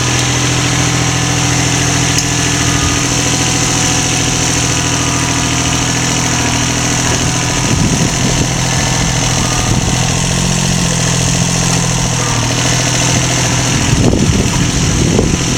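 A motor or engine running steadily with a constant hum. Short, irregular louder noises come about halfway through and again near the end.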